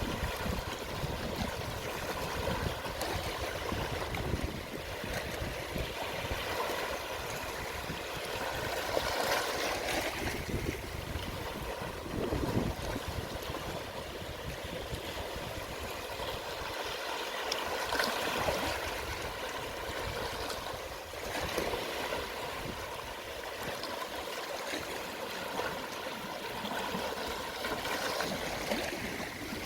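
Small, calm sea waves washing onto the shore at low tide: a continuous wash of water that swells and eases every few seconds.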